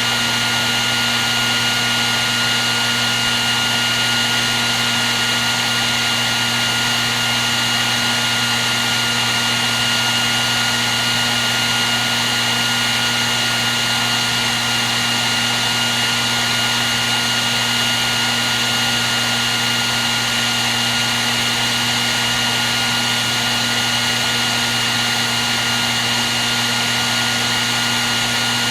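Hair dryer running continuously at one setting: a steady rush of blown air with a constant motor hum and a thin, high whine, unchanging throughout.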